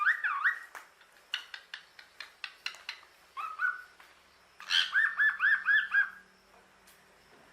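Parrot whistling: it opens with a sliding whistle, follows with a run of short clicking notes and a brief whistle, then gives a quick series of about six rising whistled notes about five seconds in.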